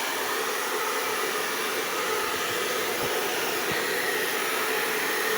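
Hair dryer running steadily, blowing air to dry a portion of meat.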